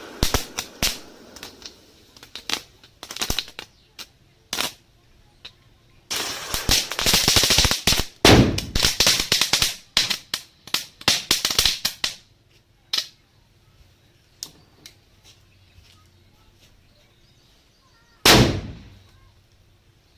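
Diwali firecrackers going off: a short hiss, then scattered sharp bangs. A dense rapid crackle of many small reports runs for several seconds through the middle, and a single loud bang comes near the end.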